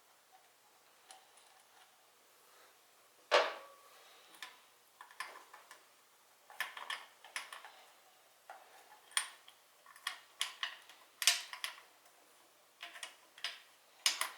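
Hand tools and small metal parts clicking and clinking in irregular light taps, the loudest about three seconds in.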